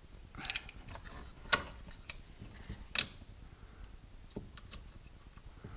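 A handful of separate sharp metallic clicks and clinks, one doubled near the start, from a wrench and the 13mm battery terminal clamp hardware being handled.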